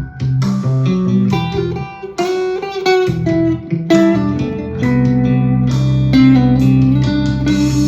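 Harley Benton TE-62CC Telecaster-style electric guitar played through an amp: a run of single-note blues licks, ending on a held note that bends down near the end.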